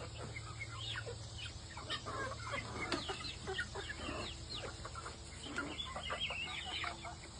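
A flock of chickens clucking, many short, falling calls overlapping one another throughout.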